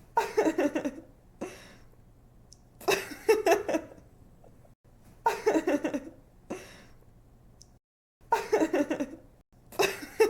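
A young woman laughing in bright giggling bursts, five in a row about every two and a half seconds, each a quick run of 'ha' pulses with a short breath between.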